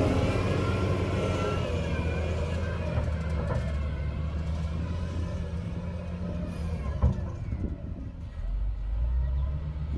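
Heavy diesel engine of earthmoving machinery running and slowly easing down, with a sharp knock about seven seconds in. Near the end the engine picks up again.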